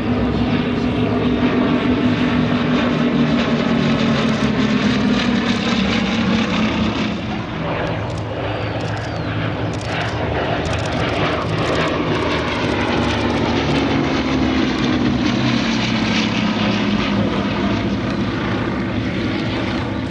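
Bristol Blenheim's twin Bristol Mercury radial engines running in flight. The engine note sinks in pitch over the first several seconds, dips briefly, then swells and falls again as the bomber makes another pass.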